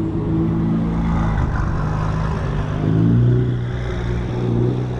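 Car engine running, its pitch rising and falling with a brief rev about three seconds in.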